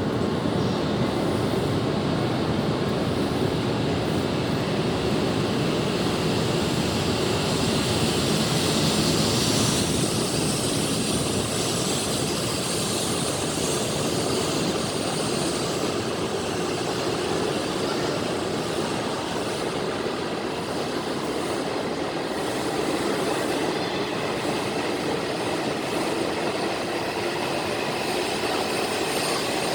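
Coupled Hayabusa and Komachi Shinkansen trains (E5 and E6 series) pulling out of a station, a steady rush of train noise.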